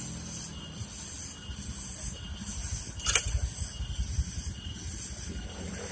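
Low, uneven rumble of a heavy truck on a steep downhill road, with a faint high hiss that pulses about every half second and one sharp click about three seconds in.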